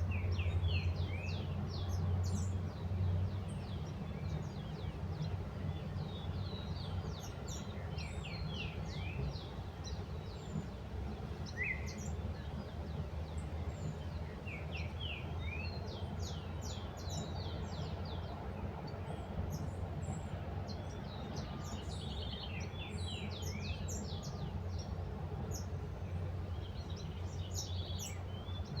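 Small birds chirping in quick scattered bursts of short high notes, over a steady low hum.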